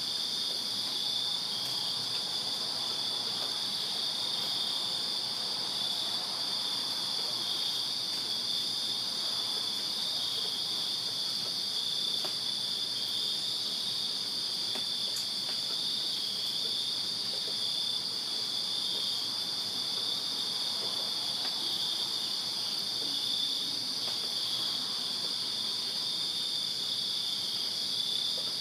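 Night chorus of crickets chirping without a break, a steady high-pitched trill made of two overlapping pitches.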